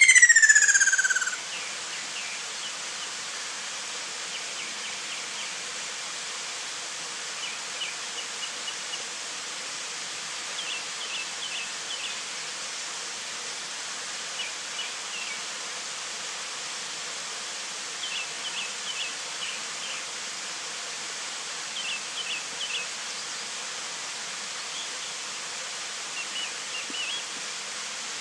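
Ruddy kingfisher giving its loud, descending whistled call once at the very start, sliding down in pitch over about a second. After it, a steady hiss continues, broken every few seconds by faint clusters of short high chirps.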